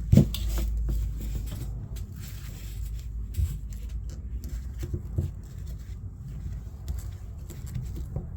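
Handling noise as a thick old dryer cord is worked with hand cutters, with a sharp click or knock just after the start and a few lighter knocks later on.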